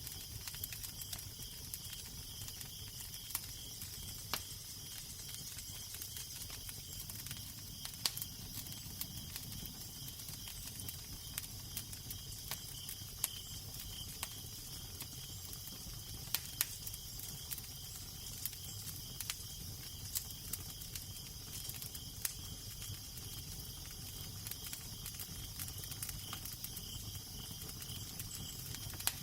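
Crackling fire: scattered sharp pops and snaps over a steady hiss, with a low wind rumble underneath.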